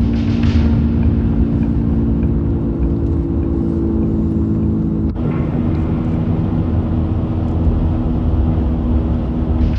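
Car on the road: steady engine and road rumble, with the engine note stepping down to a new pitch about five seconds in.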